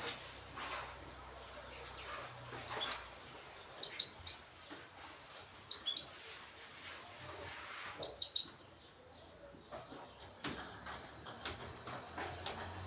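Goldfinch hybrids chirping: short, high, bright calls in four quick clusters a second or two apart, then only faint ticks and clicks in the second half.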